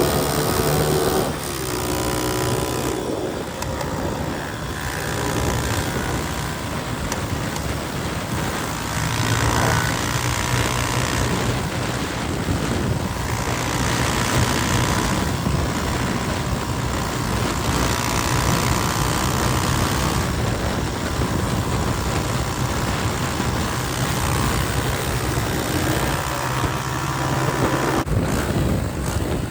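Motorcycle engine running while being ridden, its pitch rising and falling with the throttle over a steady rush of noise.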